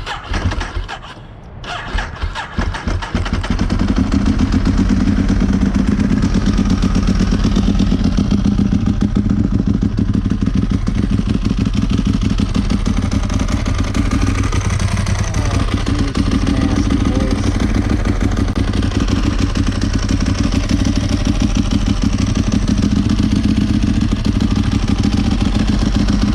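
Ducati 1198 S's 1198 cc L-twin engine on its first start-up: the starter cranks briefly, the engine catches about three seconds in, then settles into a steady, pulsing idle.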